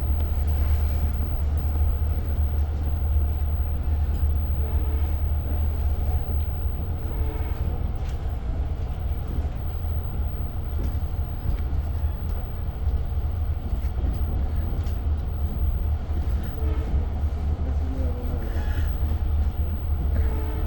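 Long Island Rail Road diesel train heard from inside a passenger car: a steady, even low rumble and hum.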